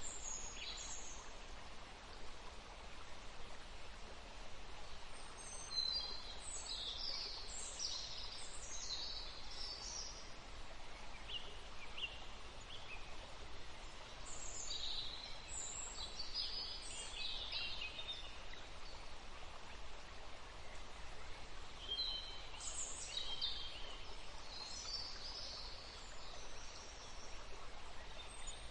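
Wild songbirds singing: high, quick chirping phrases that come in clusters every eight seconds or so, over a steady background hiss.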